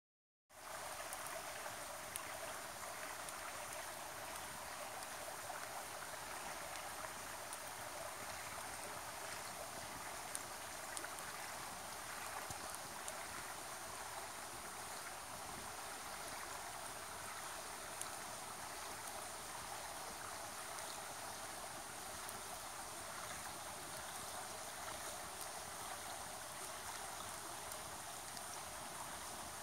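River water running and gurgling steadily, with a few faint sharp ticks now and then.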